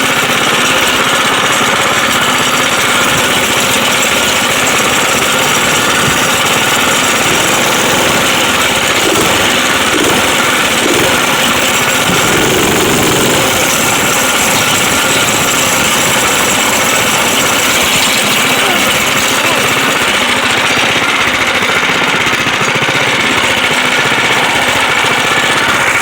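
Dirt bike engine running loud and steady throughout a ride.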